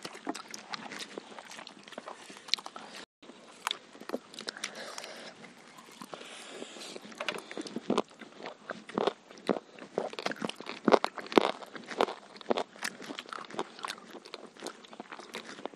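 Close-miked eating sounds: chewing and crunching of fried chicken and biryani eaten by hand, a dense run of sharp irregular crunches and mouth smacks, busiest in the second half. The sound drops out for an instant about three seconds in.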